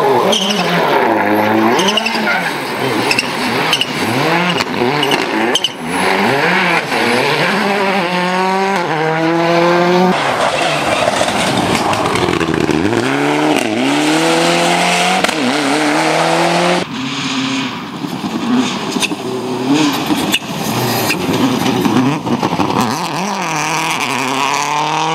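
Rally cars running flat out, engines revving hard and rising and falling in pitch through gear changes as each car comes past. Short sharp cracks are scattered through. The sound changes abruptly a few times as one car gives way to the next.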